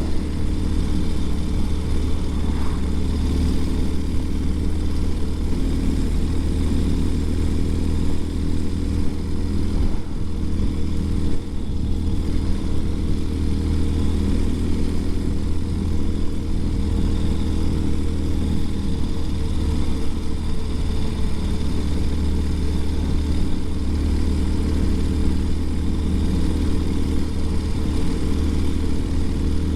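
2020 Ural Gear Up sidecar motorcycle's air-cooled flat-twin engine running steadily while riding at low town speed.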